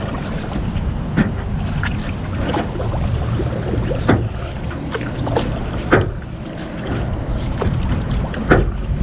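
Paddle strokes moving a small rowboat across a pond: a short dip or knock every second or two over a low steady rumble.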